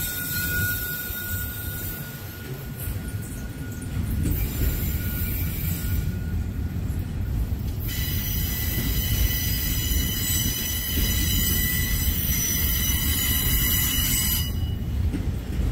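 Autorack freight cars rolling past, with a steady rumble of wheels on rail and high-pitched wheel squeal. One thin squeal runs for the first several seconds, then a stronger, higher squeal sets in about eight seconds in and stops shortly before the end.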